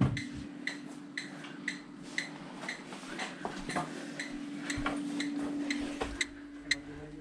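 Steady electronic ticking, about two ticks a second, over a constant low hum, with a few light knocks and handling clatter.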